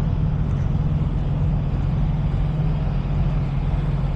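A truck's diesel engine running as a steady low drone.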